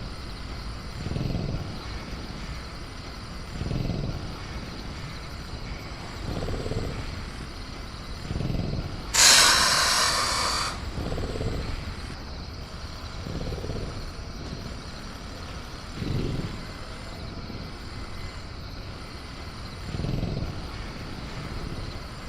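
Sound-designed velociraptor in a cage: low rumbles roughly every two to three seconds, and one loud hiss about nine seconds in lasting a second and a half. Beneath it runs a steady bed of night-jungle crickets.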